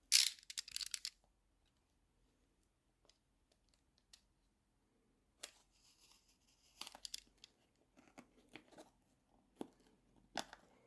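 Packaging being torn and handled as a battery charger is pulled out of its box: a loud rip in the first second, then a lull, then scattered rustling and small clicks.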